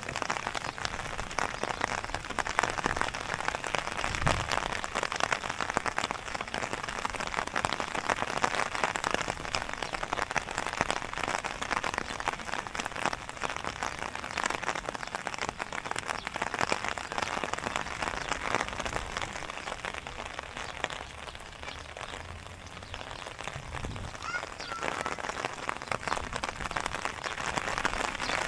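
Steady rain falling, a dense patter of drops that eases a little about two-thirds of the way through.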